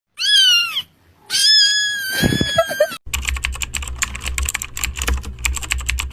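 A cat meows twice, a short meow and then a longer drawn-out one, followed by about three seconds of rapid computer keyboard typing.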